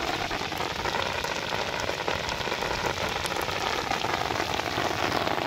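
Steady rain falling on shallow open water.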